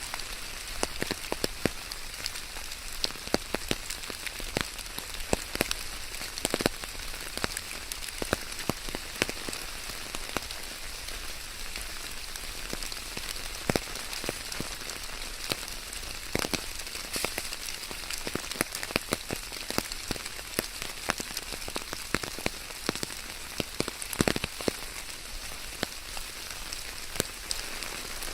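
Steady rain falling, an even hiss with many sharp, irregular drop impacts close by.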